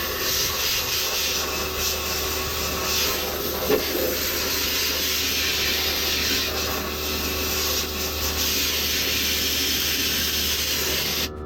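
Compressed nitrogen blowing out of a hose in a steady, loud hiss to clean a plugged condenser coil; it cuts off abruptly near the end.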